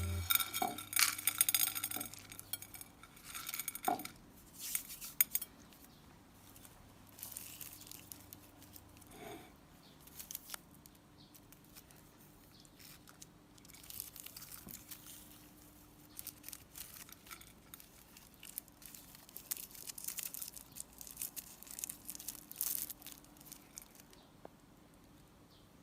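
Irregular light clinks, taps and rustles of small objects being handled, with quieter stretches in between.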